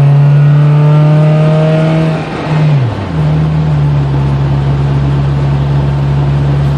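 Car engine heard from inside the cabin, accelerating hard, its pitch rising for about two seconds. The pitch dips briefly about two and a half seconds in, then holds steady as the throttle eases.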